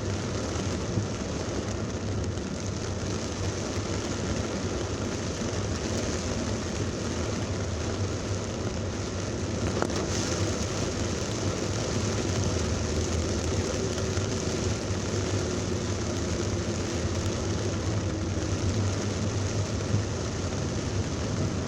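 Heavy rain falling on a car, over the steady low hum of the engine and road noise in traffic.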